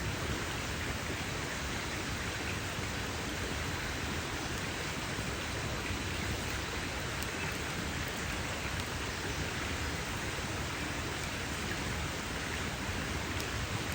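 Campfire burning with a steady dense crackling hiss. A few sharper pops stand out now and then.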